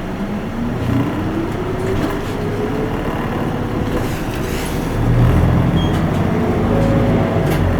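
Isuzu Erga Mio city bus running under way, heard inside the passenger cabin: engine and drivetrain noise with a whine that rises in pitch over the first three seconds as the bus accelerates, then holds steady, with a deeper rumble growing louder about five seconds in.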